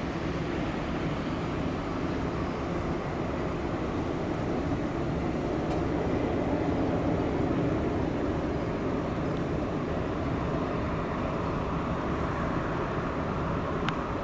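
Jet airliner engine noise, a steady rumbling rush that swells a little midway through.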